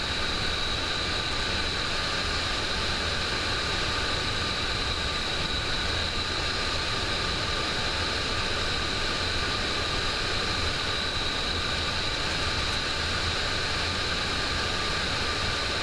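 Steady cockpit noise of a Boeing 727 on short final, gear and flaps down: a constant rush of airflow and engine noise with a thin steady high whine over it.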